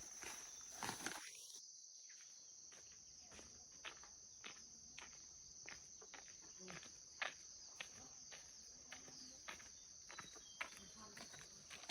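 Insects trilling in a steady high-pitched drone, with faint irregular ticks about one or two a second.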